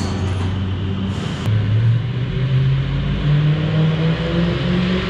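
Mercedes CL63 AMG's stock naturally aspirated V8 running on a chassis dynamometer, rear wheels spinning on the roller. About a second and a half in, the engine note starts climbing slowly and steadily in pitch as the revs build during a measuring run.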